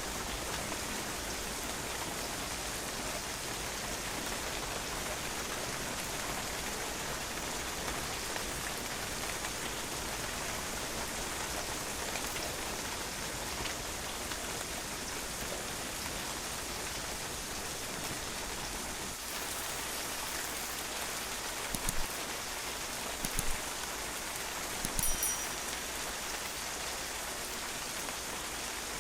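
Steady rain falling and splashing on a patio, an even hiss of drops. A few brief, louder taps come about three quarters of the way through.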